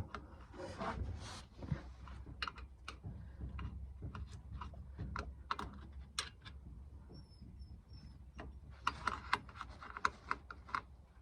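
Scattered light clicks and taps of metal tools and parts being handled while working under an air-cooled VW engine, with a quicker cluster of taps near the end.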